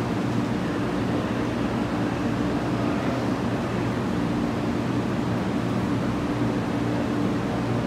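A 500 series Shinkansen standing at the platform, its onboard equipment humming steadily with a low drone over an even wash of noise.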